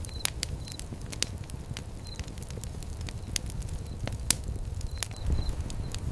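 Wood fire crackling, with sharp pops scattered irregularly over a low steady rumble of flames; the loudest pop comes about four seconds in.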